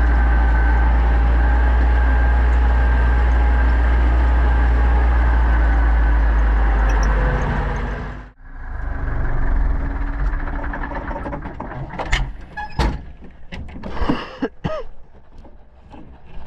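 Pronar 1025A tractor engine running steadily with a deep drone, then dying away about seven to eight seconds in. After that, a few sharp knocks and clunks.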